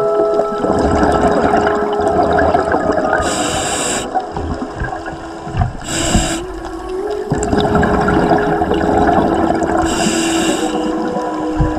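Scuba diver breathing through a regulator, heard underwater: a steady, slightly wavering hum on each inhale, and three hissing bubble bursts on the exhales, a few seconds apart.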